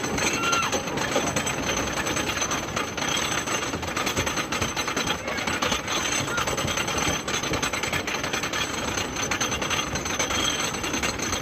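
White Lightning wooden roller coaster clattering with fast, continuous mechanical clicking, heard from a seat on the train.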